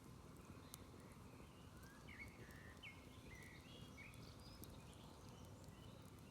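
Faint outdoor ambience: a smouldering campfire giving occasional small crackles, with a bird chirping a few short calls near the middle.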